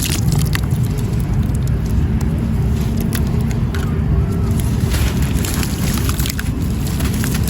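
Gritty wet sand crumbling in water: a steady low churning with scattered small crackles.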